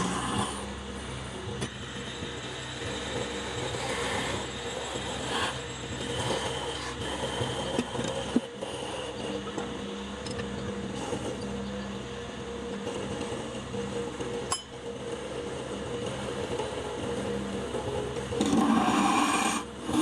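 A woodworking machine's motor running steadily, with a rough scraping noise from tool or blade on wood. It gets louder near the end.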